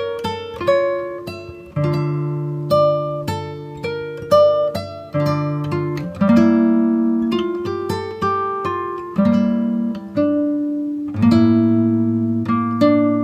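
Background music: an acoustic guitar plucking a melody over strummed chords and a bass line.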